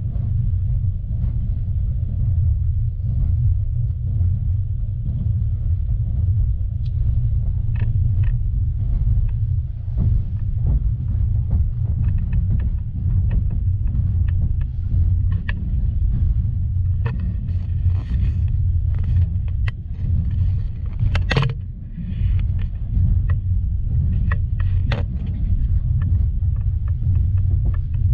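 Passenger train running: a steady low rumble of the moving carriage, with short irregular clicks and knocks from the wheels and car body, one sharper knock about two-thirds of the way through.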